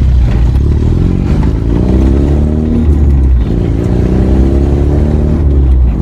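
Vehicle engine accelerating under a heavy low rumble. The pitch rises, drops a little over three seconds in as it shifts gear, then rises again.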